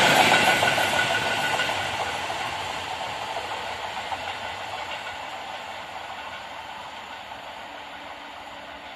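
Freight train of open wagons passing close by, ending with its brake van, then the rumble of its wheels on the rails fading steadily as it moves away.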